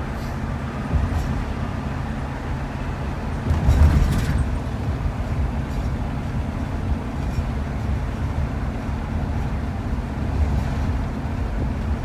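Road and engine noise inside a moving shuttle van: a steady low rumble, with a louder jolt about four seconds in.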